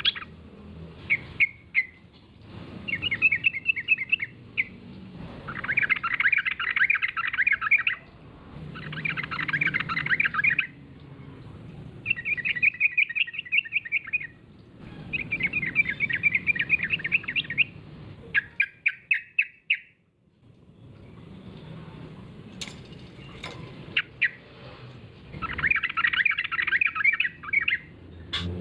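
Yellow-vented bulbul (trucukan) singing in lively, bubbling, chattering phrases of one to three seconds each, separated by short pauses, with a brief quieter gap about two-thirds of the way through.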